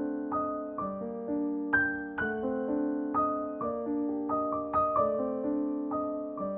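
Background piano music: a slow, gentle melody of single struck notes, each ringing out and fading.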